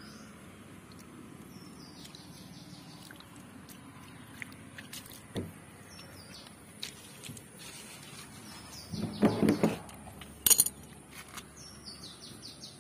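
A songbird calling twice, each time a quick run of high chirps stepping downward, about two seconds in and again near the end. A louder short sound comes about nine seconds in, with a sharp click about a second later.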